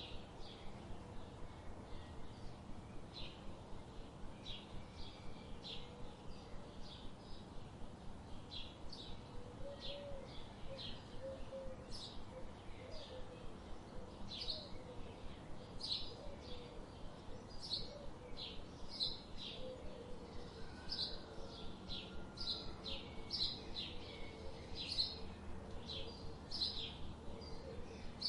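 Birds chirping: a dense run of short, high chirps in quick succession, with a fainter, lower wavering call joining about nine seconds in.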